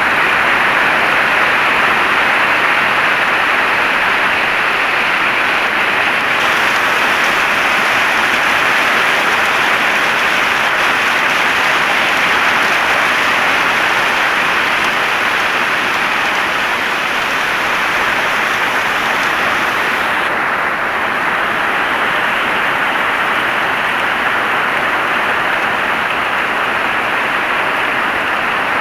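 Heavy rain falling steadily, a dense even hiss. The higher hiss is brighter for a stretch from about six seconds in to twenty seconds in.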